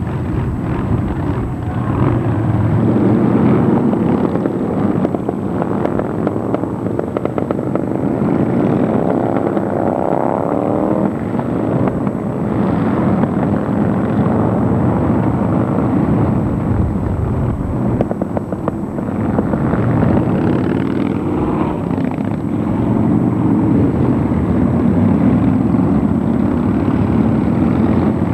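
Motorcycle engines running continuously as many bikes ride past, with one engine revving up about a third of the way in.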